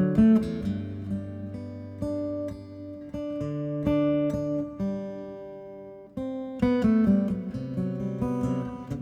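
Background music: acoustic guitar, plucked and strummed chords ringing out.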